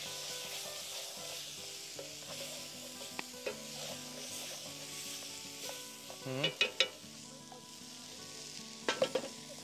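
Ground deer meat in cream of mushroom sauce sizzling in a pan while it is stirred. A few sharp scrapes of the utensil against the pan come about six and nine seconds in.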